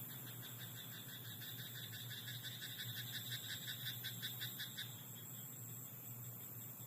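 A frog in a rice paddy croaking in a rapid, rhythmic train of pulses that grows louder and stops about five seconds in.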